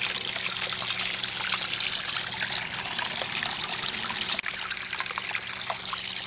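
Small garden-pond waterfall trickling and splashing steadily into the pond, with a faint steady low hum beneath it.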